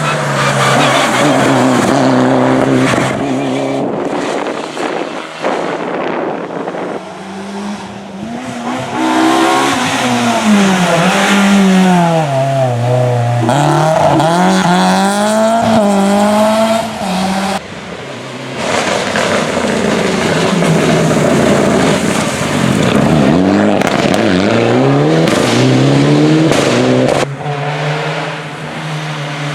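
Rally cars driven hard on a stage, one after another, their engines revving up and dropping back through gear changes. The sound changes abruptly several times as one car gives way to the next.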